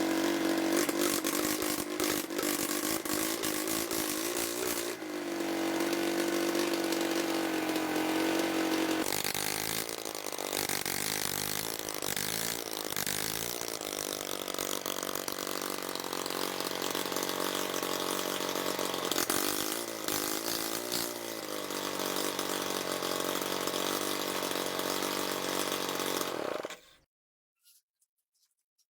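Motorcycle engine converted to run on diesel, running steadily with its pitch swinging up and down a few times midway, then cutting off suddenly near the end.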